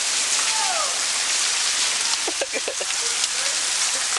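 Heavy rain falling steadily on hard surfaces: a dense, even hiss of many small drop hits.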